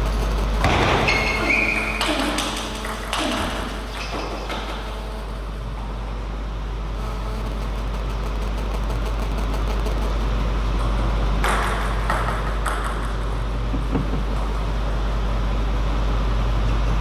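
Steady low hum, with a few brief squeaks and knocks over it: one cluster in the first few seconds and another about twelve seconds in.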